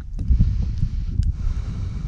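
Wind buffeting the microphone, an uneven low rumble, with a couple of faint clicks.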